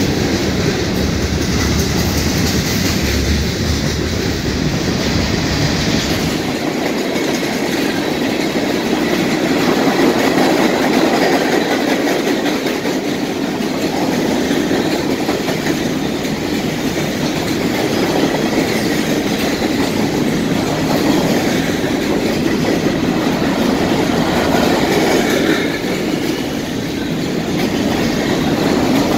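Freight train cars rolling past, a steady rumble with the clickety-clack of wheels over the rail joints; a deep low rumble drops away about six seconds in.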